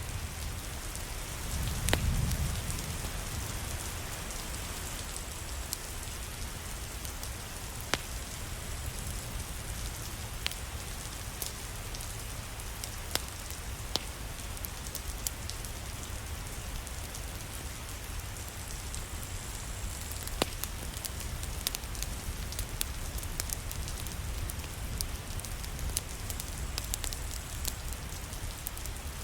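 Steady rain with scattered sharp crackles and pops from a wood fire in a fireplace. A brief low rumble comes about two seconds in.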